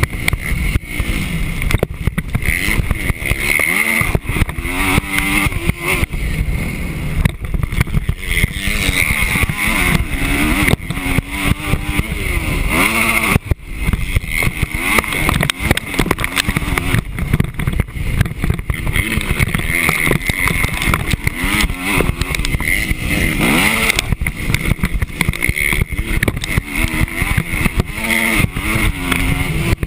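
Motocross bike engine heard on board, revving up and dropping back again and again as the bike is ridden around a dirt track, with constant wind buffeting and knocks on the microphone.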